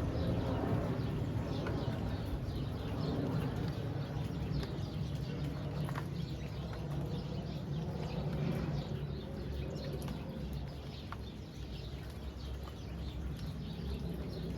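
Steady rain falling, with many small drops ticking and a low steady rumble underneath. Birds call here and there over it.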